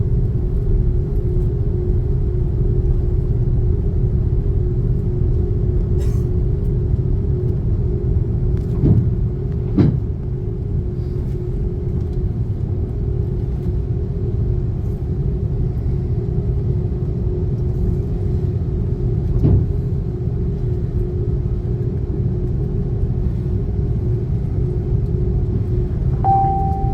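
Cabin noise inside an Airbus A330-300: a steady low rumble from the engines with a constant hum, and a few faint clicks.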